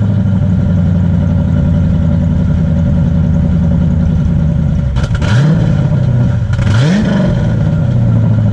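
Car engine idling just after starting, briefly revved twice about five and seven seconds in.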